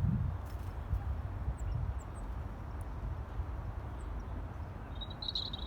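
Steady low rumble, with a few faint high chirps from small birds scattered through it and a short higher bird call near the end.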